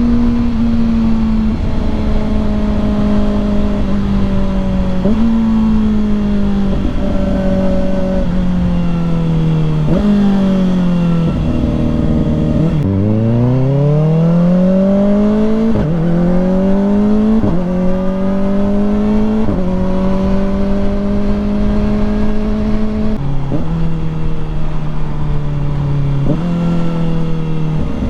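Kawasaki ZX-4RR's 399 cc inline-four engine under way, its note climbing and falling with the throttle and stepping abruptly at each quickshift gear change. About 13 seconds in, the revs drop low and then climb in one long sweep, followed by several quick upshifts.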